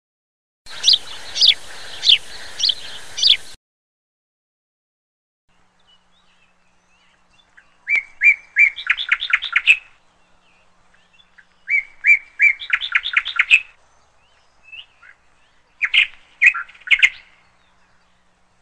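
Small bird chirping and singing: first a quick run of five falling chirps over a faint hiss, then three song phrases, each a few repeated notes that speed into a fast trill.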